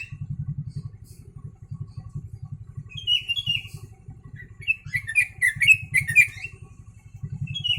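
Yellow-vented bulbul (trucuk) singing sooty-headed bulbul (kutilang) phrases it has been taught: short, clear whistled notes that rise and fall, in a brief pair about three seconds in, a longer quick run just past the middle, and another pair near the end. A low pulsing hum runs underneath.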